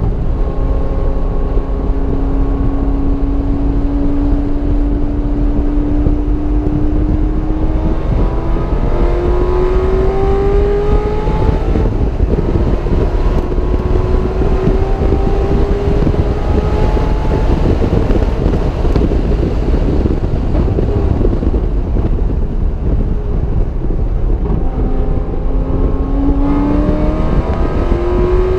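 Car engine on a racing circuit, pulling hard with its note climbing steadily and stepping up twice, then easing off for a few seconds before climbing again near the end, all under loud, steady wind and road noise.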